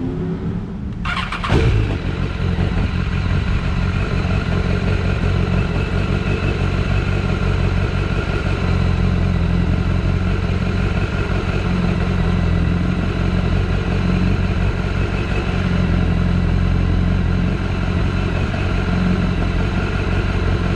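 BMW S1000RR inline-four engine catching about a second in with a sharp crack and a brief rise in level, then running at a steady idle.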